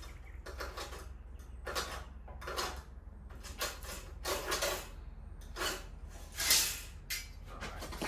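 Screw point scratching a cut mark into a treated-timber sleeper: about ten short, irregular scraping strokes, the louder ones near the end.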